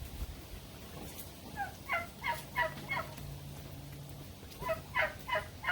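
Farm poultry calling: two runs of four quick, evenly spaced calls, about three a second, the second run starting about a second after the first ends.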